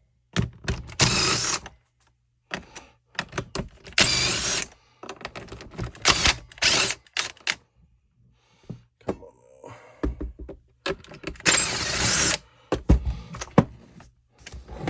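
Workbench handling noise during string-trimmer disassembly: a series of short scraping and rattling bursts, each under a second, with scattered knocks and clicks of plastic parts and tools.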